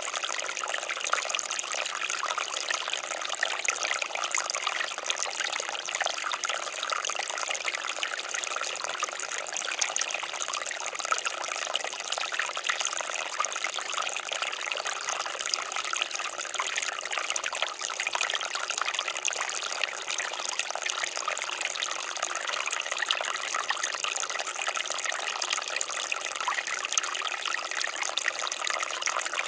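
Water fountain splashing steadily: a continuous trickle and patter of falling water, bright and hissy, with no change in level.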